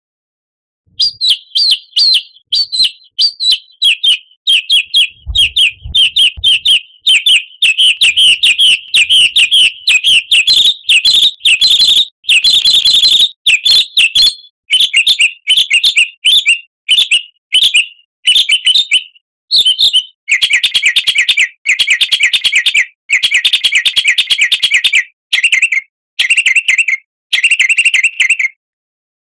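A songbird singing fast, unbroken chirps and trills, a recorded song lure of the kind played to caged songbirds to set them singing. About twenty seconds in, the song changes to harsher, buzzier runs of repeated notes. A few low thumps come around five seconds in.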